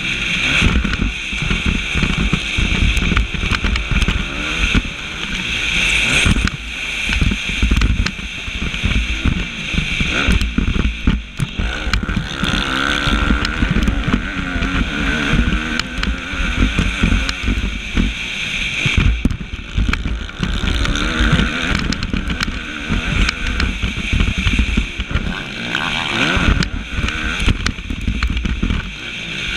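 Suzuki motocross bike's engine revving up and down under racing load, heard from an onboard GoPro, with low wind rumble on the microphone and frequent knocks from the rough track.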